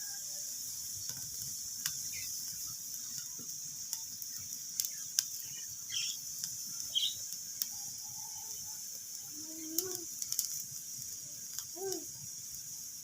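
Wood fire crackling, with scattered sharp pops and snaps over a steady hiss. In the second half a hen gives a few short clucks.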